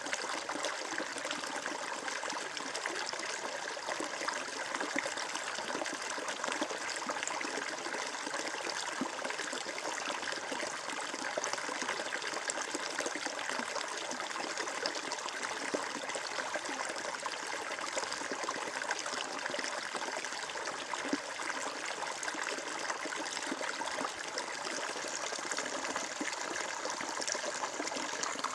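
Flowing stream water trickling and babbling steadily.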